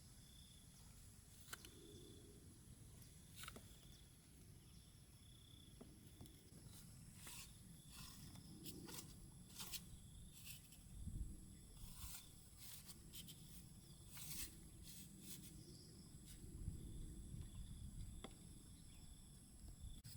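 Quiet outdoor ambience with scattered faint clicks and crackles, thickest in the middle, over a steady high-pitched hum.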